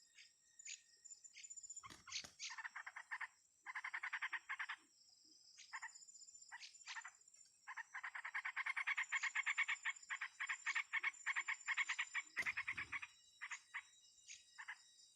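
Rapid pulsed trilling animal calls in repeated bursts, the longest lasting about four seconds, with short chirps in between. Two low thumps, about two seconds in and about twelve seconds in.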